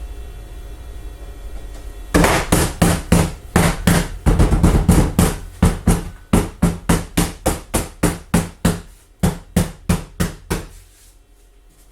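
A wooden board struck again and again, about three or four knocks a second, bedding it down onto double-sided tape on a CNC waste board. The blows start about two seconds in, grow weaker toward the end and stop. A low hum sits underneath before they start.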